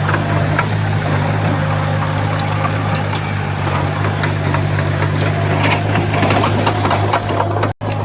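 Heavy construction machine's diesel engine running steadily, with scattered clacks and rattles over it. The sound cuts out for an instant near the end.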